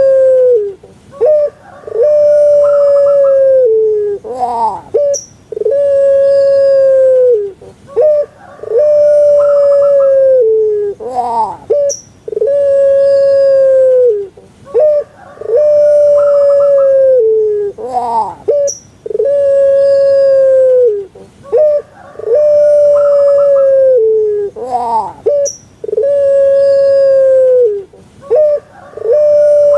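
Puter pelung (Barbary dove, Streptopelia risoria) cooing its long call over and over, about every three seconds. Each call is a long held note that drops in pitch at its end, followed by a quick rising note and a few short notes.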